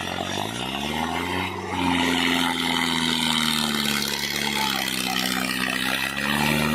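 Tractor engine running, its pitch dipping then climbing over the first two seconds as it revs up, holding steady, then rising again near the end.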